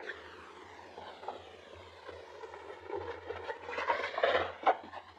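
A passing engine's noise, growing louder to a peak about four seconds in, with a few sharp ticks near the loudest point.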